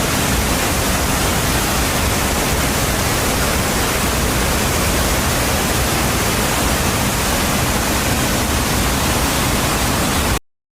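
Steady, even rushing noise with no pitch or rhythm, which cuts off suddenly near the end.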